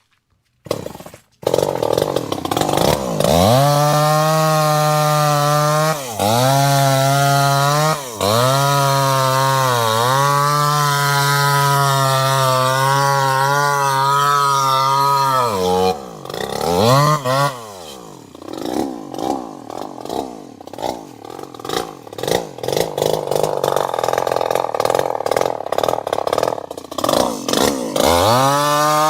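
Chainsaw engine starting about a second in, then running at high revs, its pitch dipping and recovering every few seconds. Around the middle it drops to a rougher, uneven running, then revs back up near the end.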